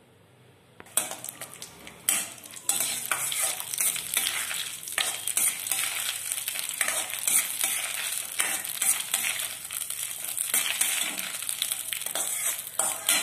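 Cashew nuts sizzling as they fry in hot ghee in a stainless steel kadai, stirred and scraped with a steel slotted ladle, the ladle's many sharp clicks on the pan mixed in. The sizzling starts about a second in and grows fuller about a second later.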